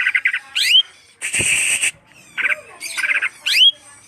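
Cucak hijau (green leafbird) singing loudly: quick runs of notes and upward-sweeping whistles, each followed by a harsh rasping burst, the phrase given twice.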